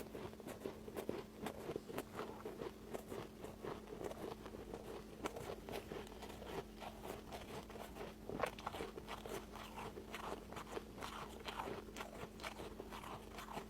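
Close-up crunching of ice being bitten and chewed: a dense, irregular run of small crackling crunches, over a faint steady hum.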